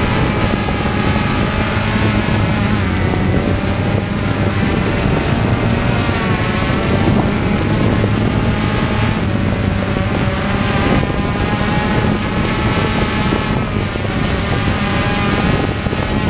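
Steady engine and propeller noise of an aircraft in flight, with several tones wavering slightly in pitch and some wind noise.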